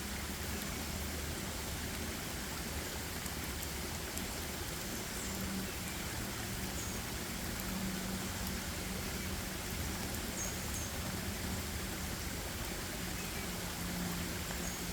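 Forest ambience: a steady, even hiss like rain or running water, with a faint low hum underneath and a few brief, high chirps now and then.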